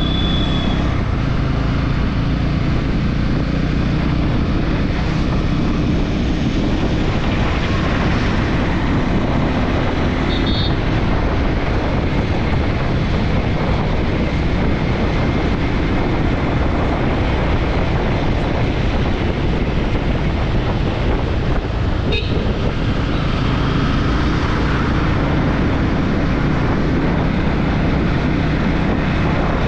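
Bajaj Pulsar N250's 250 cc single-cylinder engine and exhaust running on the move, heard from the rider's position with wind rushing over the microphone.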